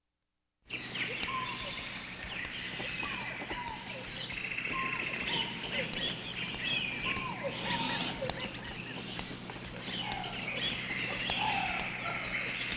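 Many birds chirping and calling in a dense ambience over a steady high whine, cutting in suddenly about a second in after silence.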